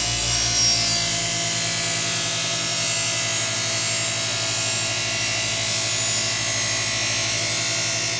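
Bench grinder fitted with buffing wheels running with a steady motor hum, while a blade is held against the compound-loaded buffing wheel, giving an even hiss.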